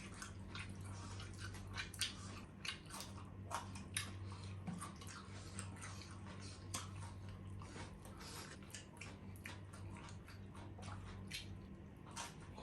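Close-up chewing and mouth sounds of people eating grilled meat: many small, irregular wet clicks and smacks over a steady low hum.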